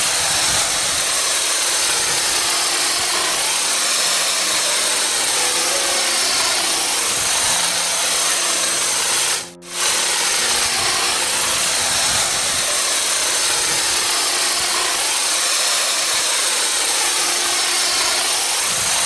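Power saw cutting wood, a steady loud noise that drops out briefly about halfway through.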